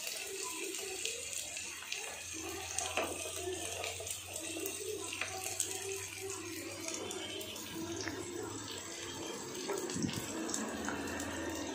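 Chopped onion, ginger and garlic sautéing in oil in a nonstick frying pan: a steady sizzle with scattered small crackles. A low hum comes in about two seconds in.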